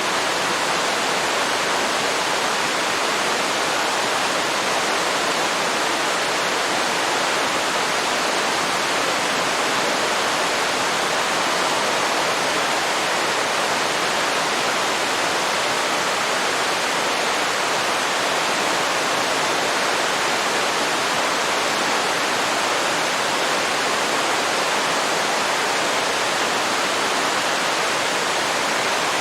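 Waterfall pouring into a river: a steady, unchanging rush of falling water.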